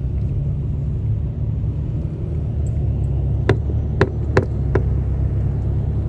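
Steady low rumble of a car's engine and road noise heard from inside the cabin while driving slowly. A few sharp clicks come about halfway through, close together.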